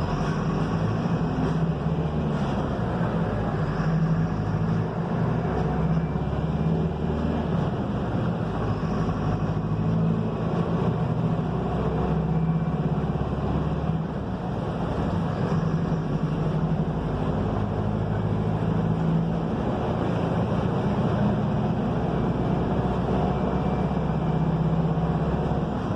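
Mercedes-Benz OF-1721 bus's front-mounted diesel engine running under way, with steady road noise. The engine note shifts up and down a few times as it changes speed, with a brief dip about fourteen seconds in.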